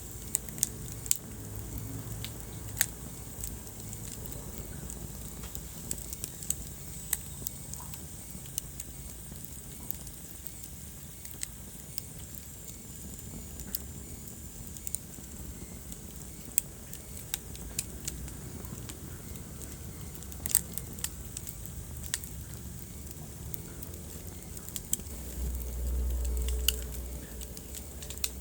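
Wood fire crackling in a fireplace: scattered sharp pops and snaps over the low, steady rumble of the flames. Near the end the low rumble briefly swells louder.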